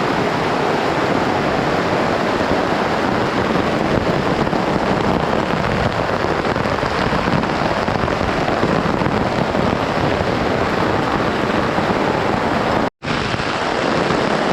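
Heavy rain falling steadily, a loud, even rush of noise, broken by a brief cut about two seconds before the end.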